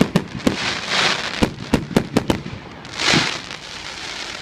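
Display fireworks going off: a rapid, irregular series of sharp bangs from shells and cakes, with two short spells of hiss, about a second in and about three seconds in.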